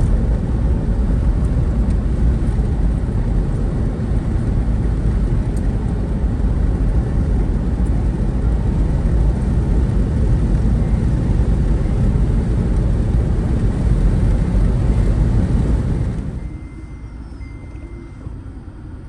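Loud, steady rumbling road and wind noise from travelling in a moving vehicle, which drops off sharply about sixteen seconds in, leaving a much quieter background.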